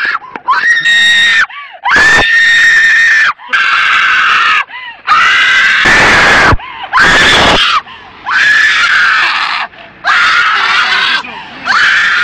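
A woman screaming hysterically: a run of about nine long, shrill shrieks, each about a second long, with short breaths between them.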